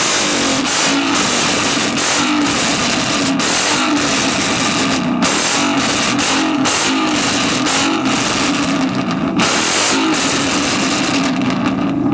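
Infiniti G37's 3.7-litre V6 revved hard over and over through its exhaust, the pitch climbing and dropping about once a second, with loud rough crackle throughout as the car shoots flames.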